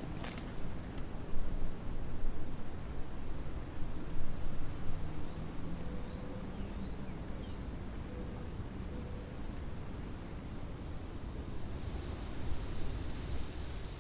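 Cricket-like insect giving one steady, unbroken high trill that cuts off shortly before the end, over a low rumble with a few louder swells in the first few seconds.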